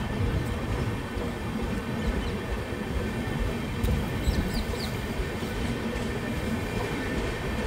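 Passenger train running on the rails: a steady rumble of wheels and coach, with a few faint high squeaks about halfway through.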